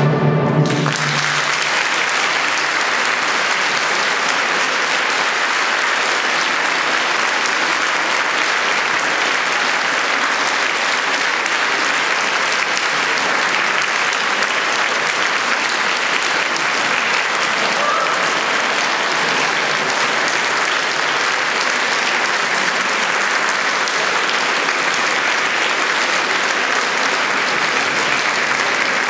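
Audience applauding steadily and at length, starting as the last orchestral note cuts off about half a second in.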